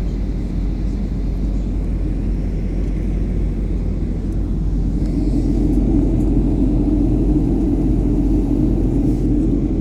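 Steady low rumble of an airliner on its approach to land, growing a little louder about five seconds in.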